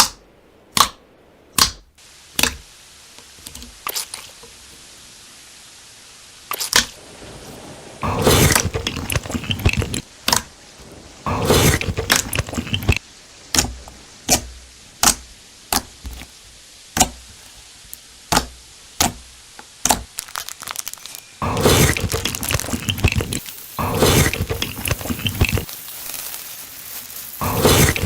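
Close-miked biting and chewing of crunchy food: sharp single crunches and cracks, with several stretches of dense crunching.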